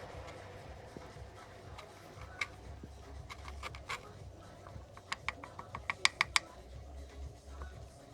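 A series of light, sharp metallic clicks and taps with a slight ring, as small metal parts are handled. They come in a quick cluster about five to six seconds in, the loudest ones there.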